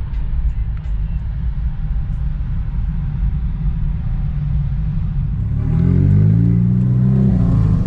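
Jet plane taking off: a deep, steady rumbling roar. About six seconds in, a louder engine drone with several wavering pitches comes in over it.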